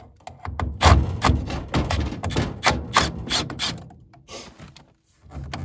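Rapid clattering knocks and rattles of a gas furnace's draft inducer and its sheet-metal housing being wiggled and worked loose by hand, dying down about four seconds in.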